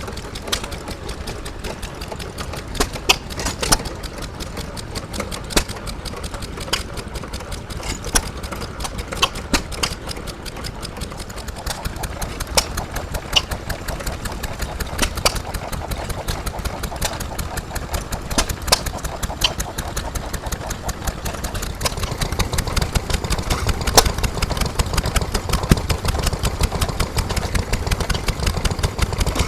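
Vintage stationary engines running, with a rapid run of sharp ticks and knocks over a steady low running note that gets heavier about two-thirds of the way through.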